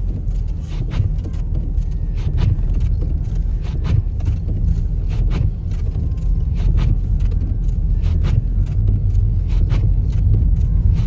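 Car cabin noise while driving slowly on a snow-covered road: a steady low rumble of engine and tyres, with short soft knocks every second or so.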